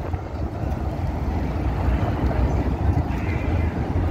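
Busy street ambience: a steady low rumble of traffic with faint voices of passers-by.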